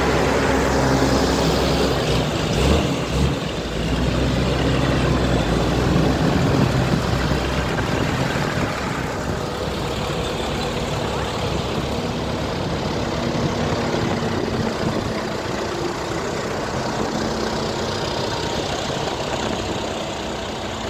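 Heavy vehicles, trucks and tractors in a procession, driving past one after another with a steady low engine hum. Several pass close by.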